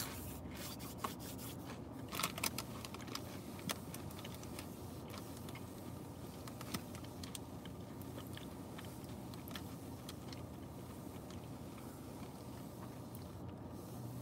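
A person chewing and biting food close to the microphone: soft, wet mouth clicks and light crunches, a few at a time, over a steady low hum inside a car.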